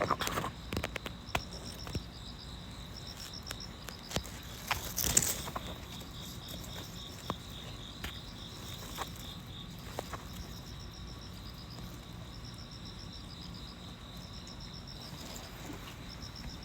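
Insects chirping: short high-pitched trains of pulses repeating every second or so, over a steady high buzz from another insect. Scattered light clicks and a brief rustle about five seconds in.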